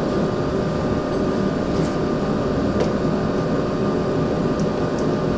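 Steady rumbling machine noise with a faint hum, and a few light clicks.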